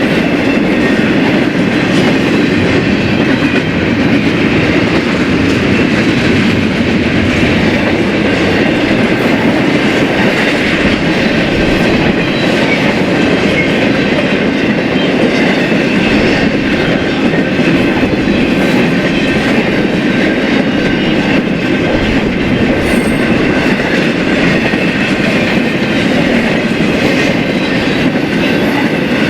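Freight cars of a BNSF intermodal train rolling past at speed, their steel wheels running steadily over the rails.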